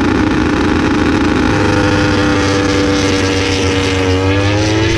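MotoGP racing motorcycle engines running over a heavy steady rumble, one engine's pitch sagging slightly and then rising again near the end.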